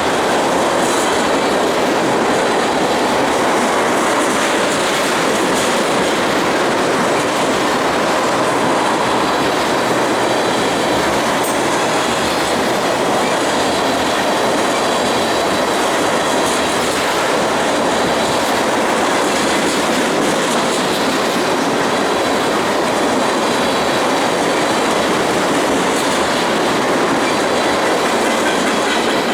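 Freight train of loaded ethanol tank cars rolling steadily past, the steel wheels clattering over the rail joints in a continuous clickety-clack, with a thin high wheel squeal over it.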